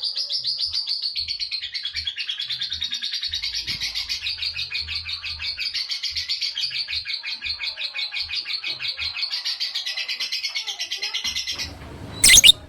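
Lovebird in 'ngekek panjang' song: a long, unbroken run of rapid, evenly repeated high chattering notes, several a second, that stops about a second before the end. A short loud knock follows right after it stops.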